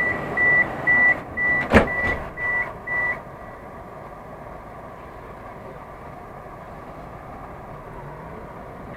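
Moscow Metro train's door-closing warning beeping rapidly, about three beeps a second, with the doors banging shut about two seconds in; the beeping stops about three seconds in and the carriage's steady running noise follows as the train gets under way.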